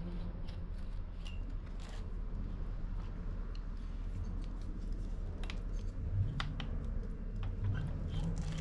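Scattered light clicks and taps of hand tools and small metal engine parts being handled, at irregular intervals over a steady low hum.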